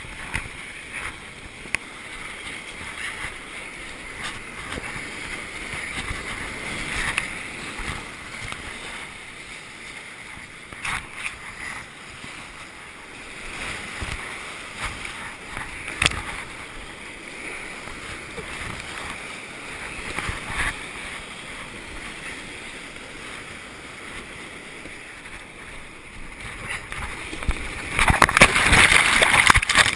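River water rushing and splashing around a kayak, with scattered small splashes and a louder burst of splashing near the end.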